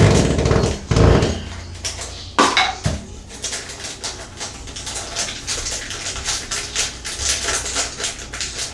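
Metal tools and fittings clinking and rattling as they are handled, with two heavier knocks in the first second or so, then a run of quick light clicks and clinks.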